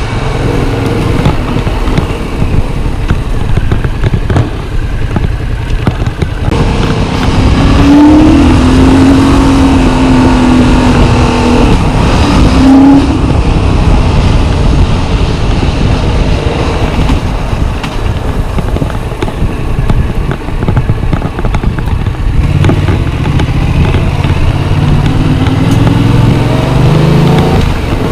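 Yamaha MT-07's 689 cc parallel-twin engine running on the move, under a heavy rush of wind noise. Its pitch rises in the last few seconds as the bike accelerates.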